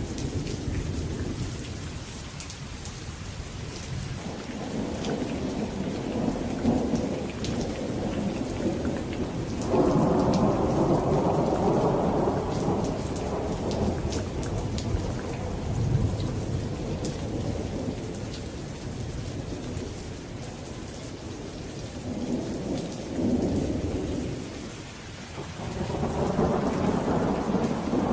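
Steady rain falling, with thunder rumbling in long waves over it; the loudest peal breaks in suddenly about ten seconds in, and another swells up near the end.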